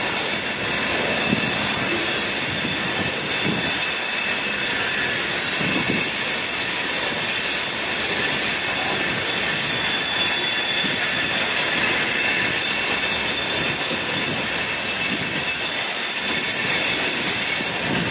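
Union Pacific freight train of covered hopper cars rolling steadily past: a continuous clatter and rumble of wheels on rail, with a thin, high wheel squeal running over it.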